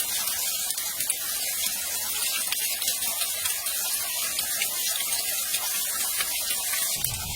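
Steady rush of falling water, an even hiss with fine crackle that does not change.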